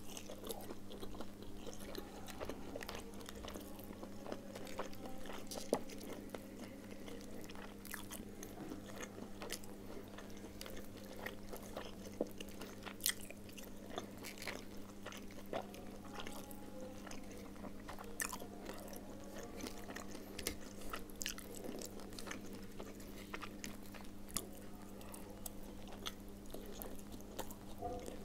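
Close-up mouth sounds of a person chewing and crunching bony fish: many small irregular clicks and smacks of eating. A faint steady hum runs underneath.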